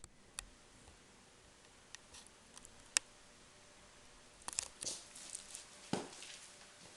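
A few scattered sharp clicks and light knocks, the sharpest about three seconds in, then a cluster of soft taps and one duller knock near the end: handling noise before the music starts.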